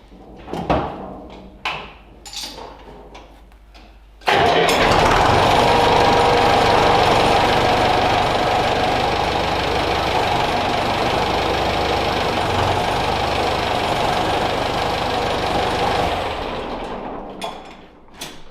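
A Valtra/Valmet tractor's diesel engine starts suddenly about four seconds in, after a few knocks, runs steadily for about twelve seconds, then dies away. It is run to try the newly assembled clutch.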